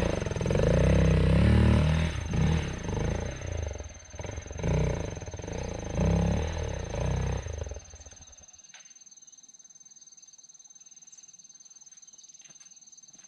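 Hero Xpulse 200 single-cylinder motorcycle engine revving up and down under load on an off-road run. It cuts off abruptly about eight seconds in, leaving a faint hiss and a few small clicks.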